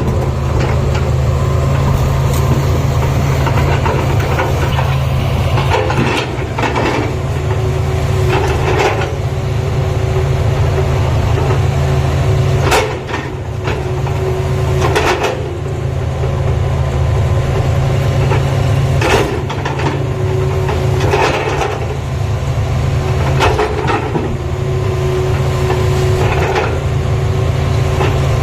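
Tata Hitachi excavator's diesel engine running with a steady low drone, with short clanks and knocks every few seconds from the working machine.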